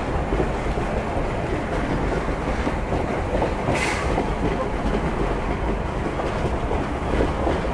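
Heritage train rolling slowly along the track, heard from the cab: a steady rumble with the clatter of wheels over the rails, and a short sharp hiss about four seconds in.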